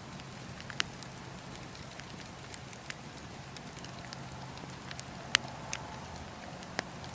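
Bonfire crackling: scattered sharp pops and snaps, the loudest about five seconds in, over a steady background rush.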